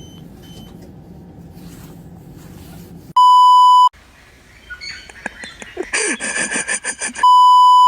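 Two loud 1 kHz censor bleeps, one about three seconds in and another near the end. Between them comes a loud, rapid run of harsh cries.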